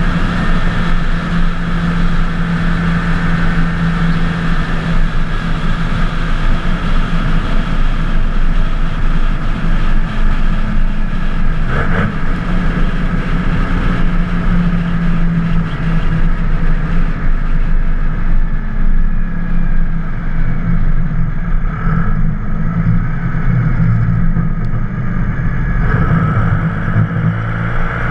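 Twin-turbocharged 24-valve Cummins inline-six diesel running steadily while driving, with a high turbo whistle over the engine note. The whistle falls slowly early on and rises again near the end.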